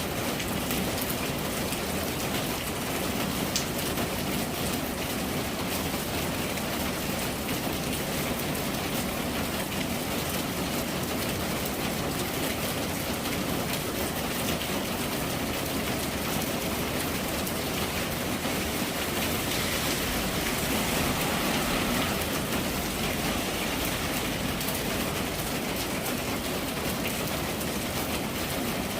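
Steady rain falling, a dense even patter with no breaks, swelling slightly about twenty seconds in.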